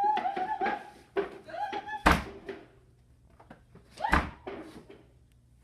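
A classroom door pushed shut twice, banging against the frame without latching: a door that won't shut. The two bangs come about two seconds apart, the first about two seconds in.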